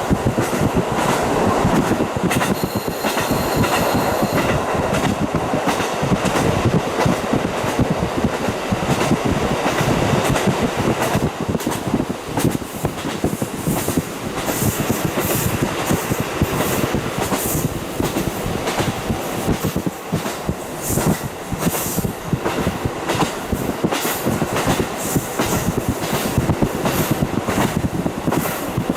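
Onboard sound of a JR Hokkaido KiHa 40 diesel railcar running along the line, heard through a fully open window. Wheels clatter over the rail joints under a steady rush of running and wind noise.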